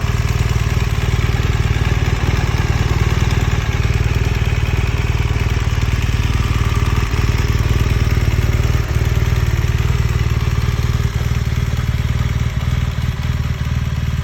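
BMW R1200RS boxer-twin engine idling steadily through an aftermarket exhaust, with an even, unchanging note.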